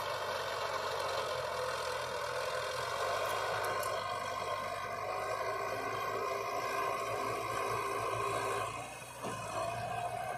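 Heavy diesel engine of earthmoving machinery running steadily, with a brief drop in level about nine seconds in.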